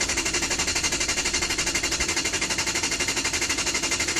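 Lexus LS400 starter being tried: a fast, even clatter of about twelve beats a second, stopping suddenly near the end, and the engine does not catch.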